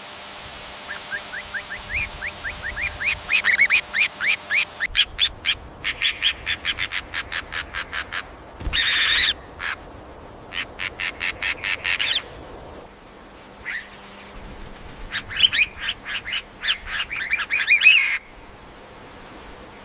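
A bird calling in fast runs of short, sharp notes, several bursts in a row, the first run speeding up. About nine seconds in there is one longer, harsher call.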